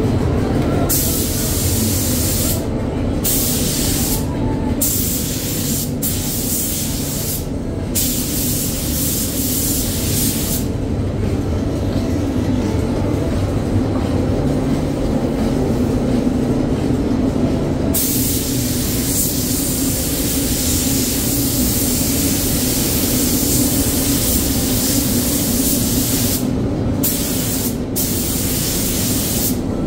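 Paint spray gun hissing in passes, the spray cutting off briefly between strokes and pausing for several seconds about a third of the way in, over a steady low drone.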